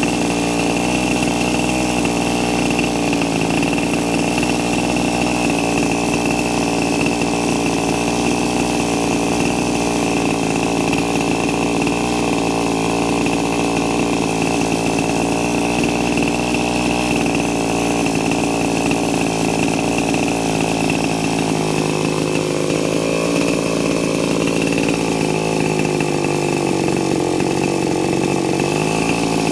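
Small model nitro (glow) engine of a Kalt Baron RC helicopter running steadily at high speed during an engine test. In the last several seconds its speed wavers, the pitch sliding down and coming back up near the end.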